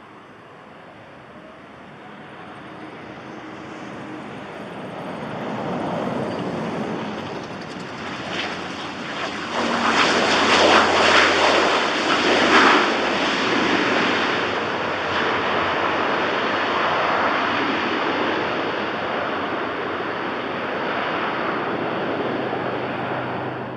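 Airplane passing close by, its engine noise building over several seconds to its loudest about halfway through, then holding steady before cutting off suddenly.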